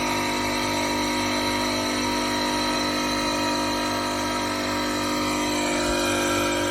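CNC stone-cutting and edge-milling machine running, a steady machine hum with several held tones.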